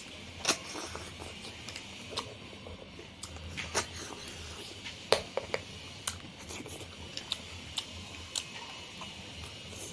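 A person eating: chewing with irregular sharp crunches and clicks, the loudest about half a second, four seconds and five seconds in.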